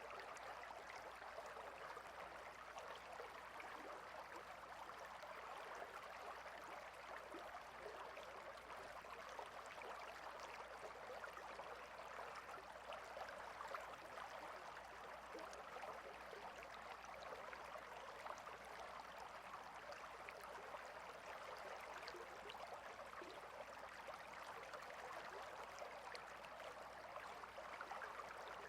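A small stream babbling steadily over stones, a faint, even rush of water flecked with small splashes and trickles.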